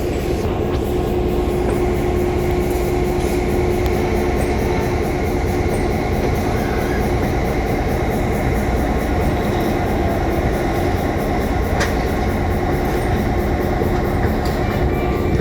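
A train running along the track: a continuous, steady rumble of wheels on rail, with a held hum that fades after the first few seconds and a single sharp click about three quarters of the way through.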